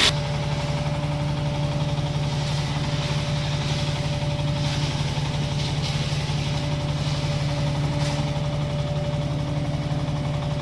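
Diesel engine of a towable wood chipper running at a steady speed with no wood going through, an even unchanging hum.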